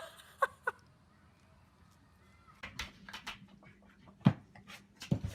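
Scattered light clicks and knocks, with a few short high chirps near the start and one louder knock a little past the middle.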